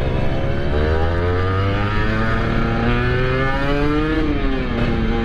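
Two-stroke motorcycle engine accelerating hard, its pitch climbing steadily for about three and a half seconds, then dropping as the throttle is eased off.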